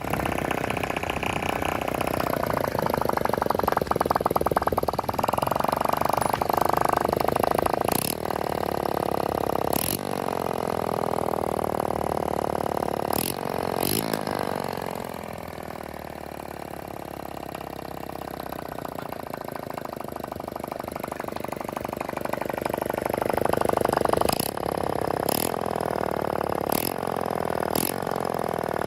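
Honda Super Cub's small single-cylinder four-stroke engine running, its revs rising and falling several times as the throttle is worked, with a few sharp clicks.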